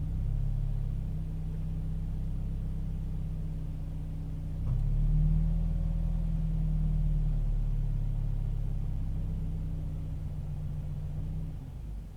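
Toyota 86's flat-four boxer engine idling roughly, its low note wavering unevenly, with a louder swell about five seconds in and a brief dip near the end.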